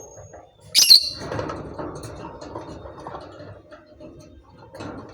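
Pet lovebird giving one loud, shrill chirp about a second in, with softer chatter and rustling around it.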